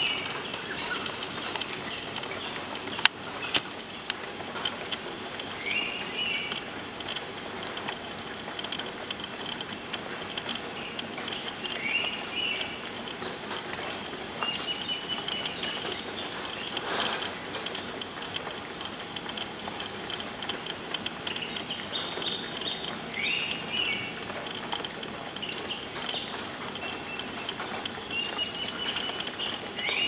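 Forest ambience with a bird repeating a short rising call several times, a few seconds apart. Other birds chirp at a higher pitch over a steady high hum. There is a single sharp click about three seconds in.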